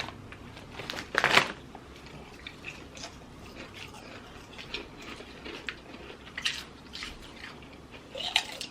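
Potato chips being crunched and chewed, with a louder crunch about a second in and scattered small crunches after it.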